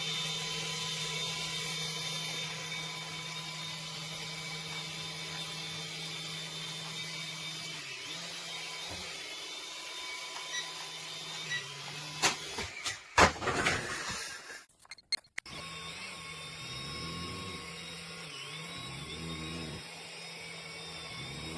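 Small electric rotor motors of a toy RC helicopter whirring steadily. A little past halfway there are a few knocks and a brief drop-out, then the whir resumes with its pitch wavering.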